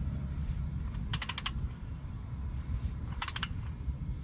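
Ratchet wrench clicking in two short runs of rapid clicks while tightening an oil drain plug to a set 30 foot-pounds.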